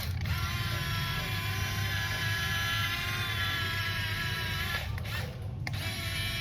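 A small electric motor whines steadily over a low hum. It winds down and stops a little before five seconds in, then starts up again under a second later.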